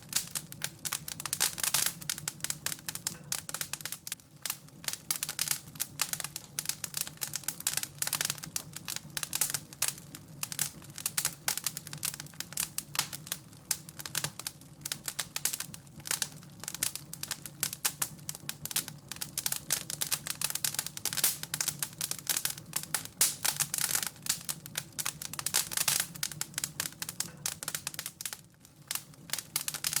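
Wood fire crackling, with many small irregular snaps and pops.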